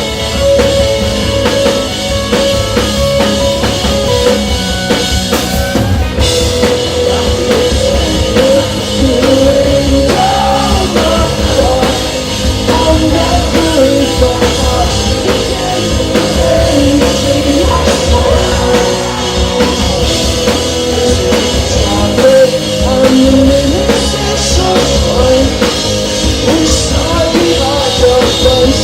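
Live rock band playing loudly, with a drum kit driving the song.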